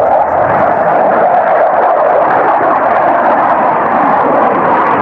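Jet aircraft flying past low and loud, coming in suddenly and holding steady, its pitch falling slowly.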